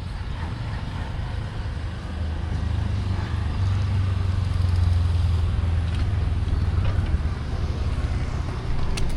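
City street traffic, with a motor vehicle's low engine rumble swelling and passing close by, loudest about halfway through. A sharp click sounds near the end.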